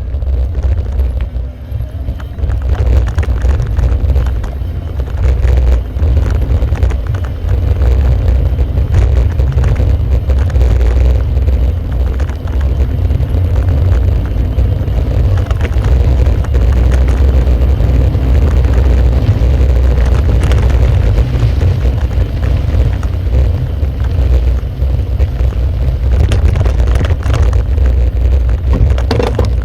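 Loud, continuous low rumble with a dense rattle from a bike-mounted camera shaken over a rough road, with some wind on the microphone. The uploader puts the bad sound down to vibrating armrests or the DJI camera mount.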